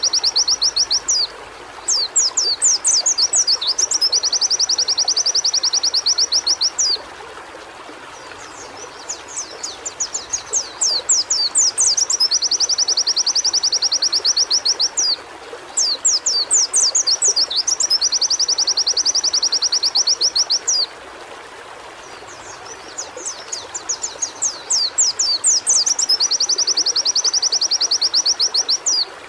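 White-eye (pleci) song: bouts of quick sweeping notes that run into a long, fast, even trill, about four bouts with short pauses between them.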